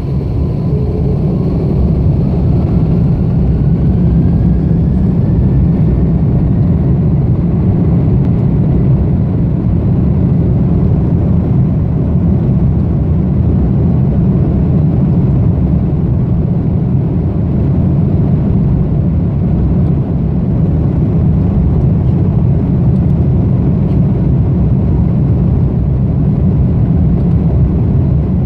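Airbus A330-202's jet engines at takeoff power, heard from inside the cabin, with a steady heavy rumble during the takeoff roll. A thin whine climbs in pitch over the first few seconds as the engines spool up, then holds steady.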